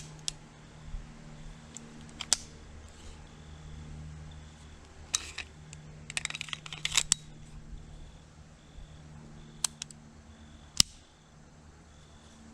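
Scattered sharp mechanical clicks and clacks over a steady low hum, with a quick run of rattling clicks about halfway through.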